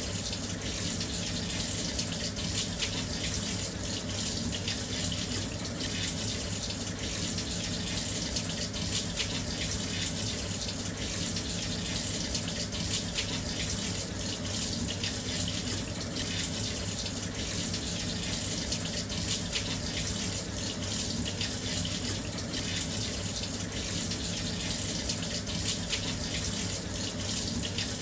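Washing machine filling with water: a steady, even rush of water pouring into the drum, unchanging throughout.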